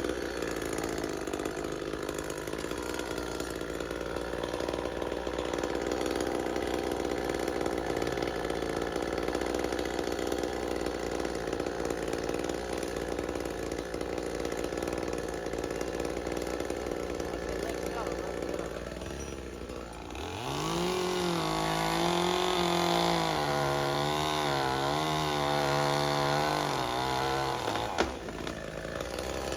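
Chainsaw running while cutting up a dead cherry tree. About twenty seconds in it turns louder with a clear wavering engine note for several seconds, then drops back near the end.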